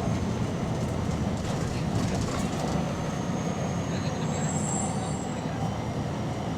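Bus running under way, heard from on board: a steady low engine rumble, with a faint high whine about two-thirds of the way through. The bus has an exhaust leak.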